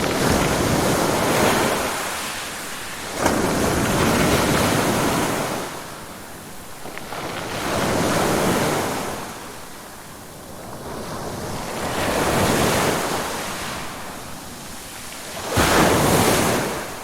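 Ocean waves breaking and washing in, about five surges, each swelling and fading over a few seconds. Two break suddenly, one about three seconds in and one near the end.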